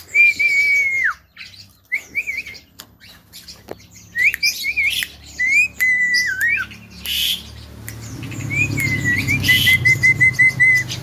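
Javan myna (jalak kebo) whistling and chirping. It opens with a long held whistle that drops away at the end, then gives short rising chirps and squawky notes, and near the end a run of about seven quick, even whistled notes. A low rumble runs underneath the last few seconds.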